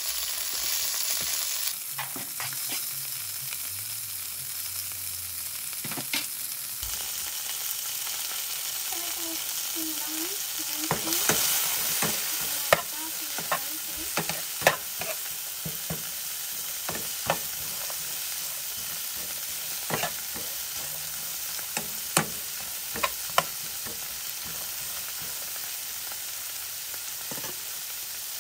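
Onion sizzling in very hot oil in a pan, stirred with a utensil that clicks and scrapes against the pan many times.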